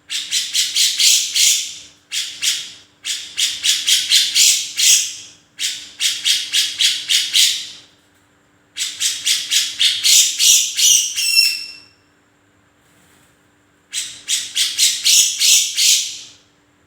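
Grey-cheeked bulbul (cucak jenggot) singing lively: repeated phrases of rapid, harsh, evenly spaced notes, about six a second, each phrase lasting one to two seconds with short breaks between. One phrase ends in a brief higher trill, followed by a pause of about two seconds before the calling resumes.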